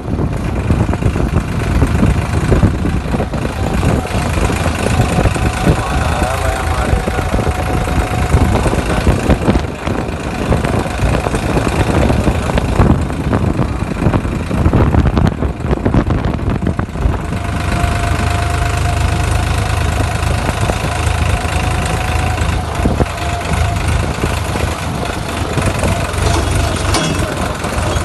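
Tractor engine idling under strong gusty wind that buffets the microphone. The rumble is irregular at first and settles into a steadier drone about two-thirds of the way through.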